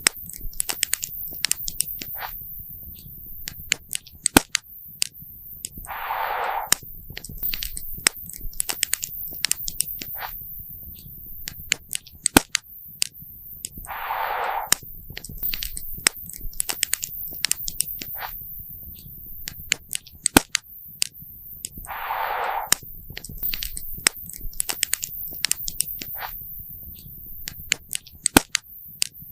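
Campfire wood crackling and popping: many sharp, irregular pops over a low, steady rumble from the burning fire. A short hiss recurs about every eight seconds.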